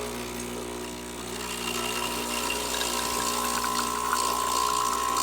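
Illy Francis Francis espresso machine's electric pump running with a steady buzzing hum, growing louder about a second in as a high steady whine joins it: the pump is working.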